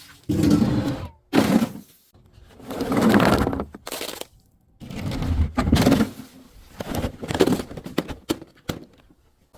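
Objects being crushed and breaking in a series of separate crunches, about six or seven, each lasting under a second with crackling through it.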